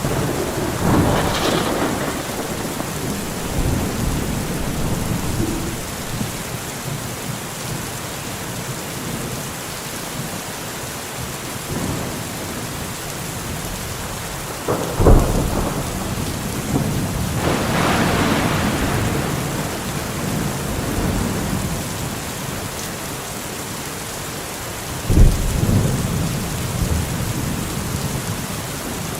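Steady rain with a thunderstorm: a long roll of thunder about a second in, a sharp close thunderclap about halfway through followed by another long rumble, and a second sudden clap near the end.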